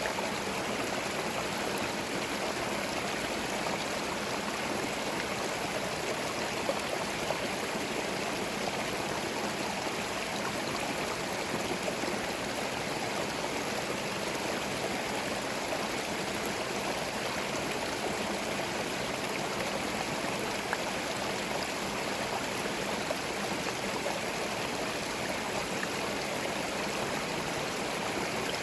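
Small forest stream: water running and gurgling over stones, a steady even rush.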